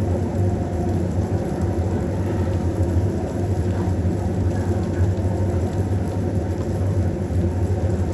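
Steady low rumbling noise, unchanging throughout.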